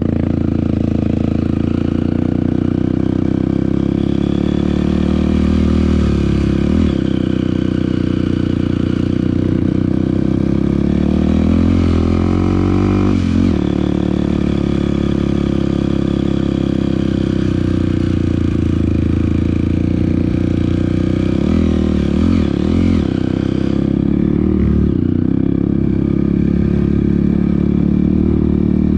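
Dirt bike engine running under way on a trail, with its pitch dipping and rising a few times as the throttle is rolled off and reopened, most sharply about thirteen seconds in.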